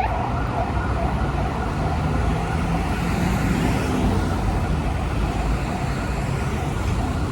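Steady street traffic noise: vehicle engines and tyres running with a continuous low rumble.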